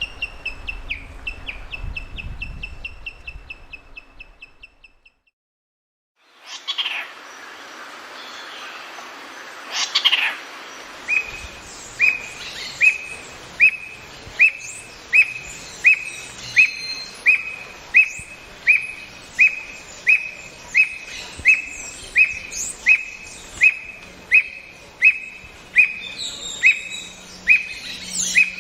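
Birds calling. A fast series of high notes fades out over the first few seconds, and after a short silence a bird repeats a short high note that drops in pitch, about three every two seconds, with other birds chirping faintly behind it.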